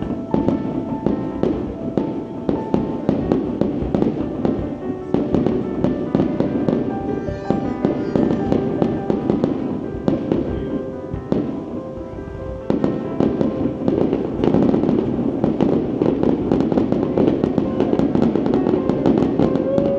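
Aerial fireworks display: a continuous, dense string of bangs and crackles from bursting shells, thickening and getting louder about two-thirds of the way through, with music playing underneath.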